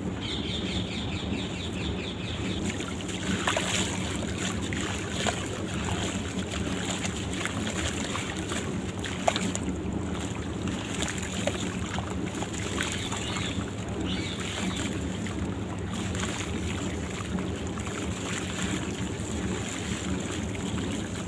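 Dry sand-cement crumbling in water: a steady hiss with many small scattered crackles and clicks, and one sharper click about nine seconds in.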